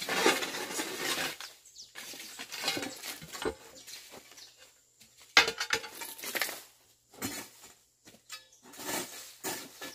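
Hoe chopping and scraping through soil and weeds, stroke after stroke at an uneven pace of roughly one every second or two, each a sharp metallic chop followed by a short scrape.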